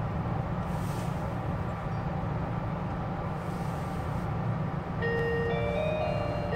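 Steady low running rumble of a Kinugawa limited express train, heard from inside the passenger car. About five seconds in, the onboard chime melody starts, the cue for the automated 'arriving soon' announcement.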